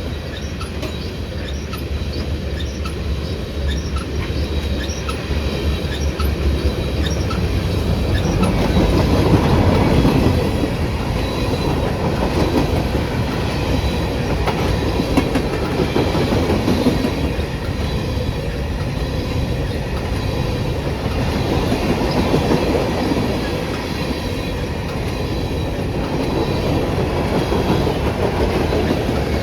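A train passing on the line: steady rumble of rolling rail cars, with wheels clicking evenly over rail joints through the first several seconds.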